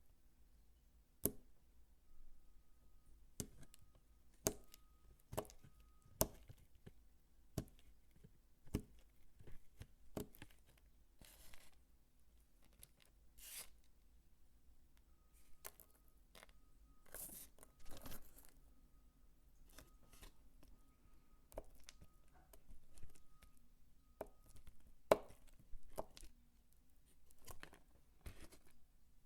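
Bar of soap being chopped with a knife: irregular sharp chops about once or twice a second, with a few longer rustling crumbles between them.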